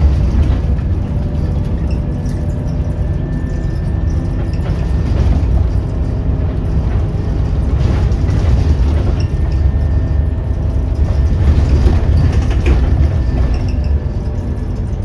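Scania Omnicity bus under way, heard from inside the passenger cabin: its diesel engine and the road noise make a steady low drone that swells and eases a little as the bus drives.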